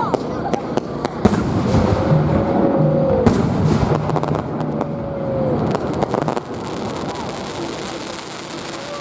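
Fireworks going off: a continuous hiss packed with rapid sharp cracks and pops for about six seconds, then easing into a steadier hiss.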